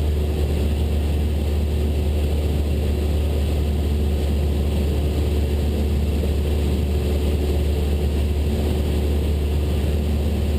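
Cessna 172 Skyhawk's piston engine and propeller droning steadily, heard inside the cockpit in level flight, with no change in pitch.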